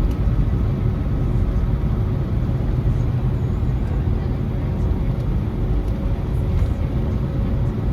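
Steady rumbling engine and air noise in the cabin of an Airbus A321neo airliner, with a few faint steady tones over it.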